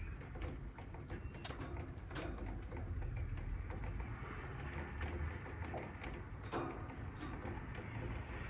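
Steady rain noise with a low rumble underneath. A few sharp clicks and taps come about twice near the start and twice again later, typical of the finches moving about their cage.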